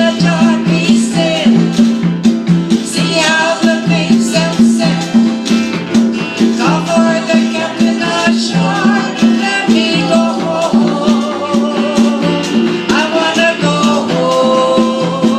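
A small band playing an island-style tune with a steady, even beat: congas and washboard over a repeating bass line, with a melody on top.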